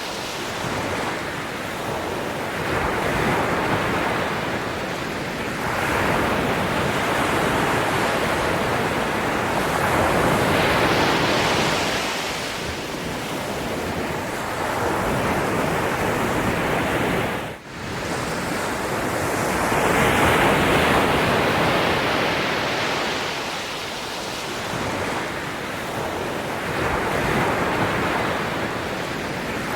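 Sea waves washing onto a shore: a continuous wash of surf that swells and ebbs every few seconds, with a momentary dip in the sound a little past halfway.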